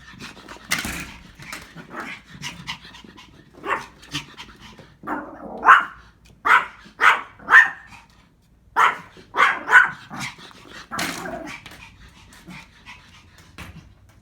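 An upset Pomeranian puppy barking repeatedly in short barks, the loudest coming in quick runs of three or four in the middle.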